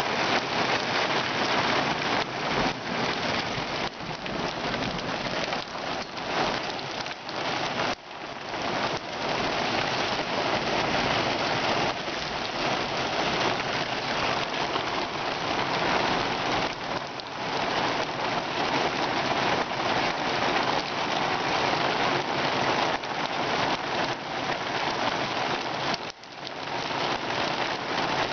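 Heavy thunderstorm rain pouring down steadily, with a few brief lulls.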